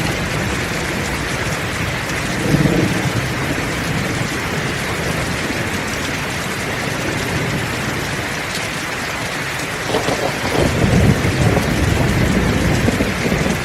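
Heavy rain falling steadily in a thunderstorm. Thunder rumbles briefly about two and a half seconds in, and a longer, louder roll starts about ten seconds in and runs to near the end.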